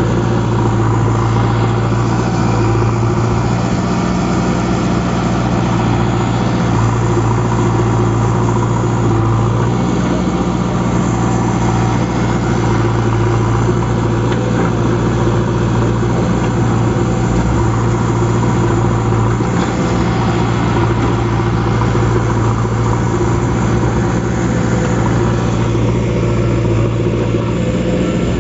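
Diesel engine of a JCB 3DX backhoe loader running steadily at a low, even speed, with no clear revving.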